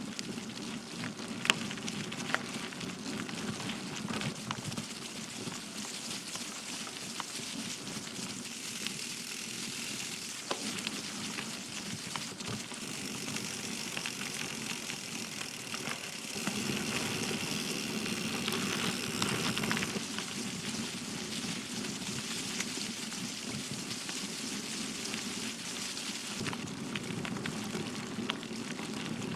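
Rose Backroad gravel bike's tyres rolling over gravel, a steady crunching crackle with a few sharp clicks, the loudest about a second and a half in. It gets louder for a few seconds past the middle.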